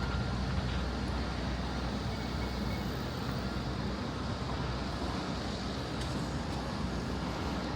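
Steady city street background noise: a low, even rumble of road traffic.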